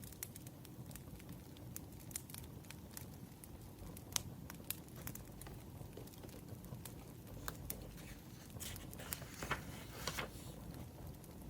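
Burning firewood crackling, with sparse, irregular sharp pops and snaps over a low steady bed; the crackle grows denser about nine to ten seconds in.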